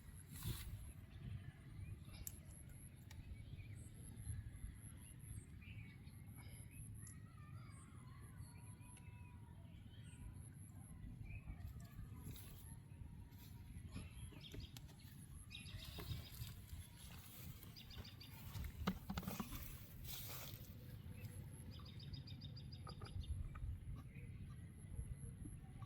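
Faint outdoor ambience: a steady low rumble with small birds chirping, plus scattered light clicks and a couple of brief fast trills.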